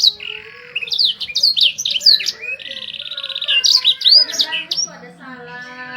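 Domestic canary singing: quick sweeping whistled notes and a fast rolling trill, with a lower, steady-pitched sound coming in near the end.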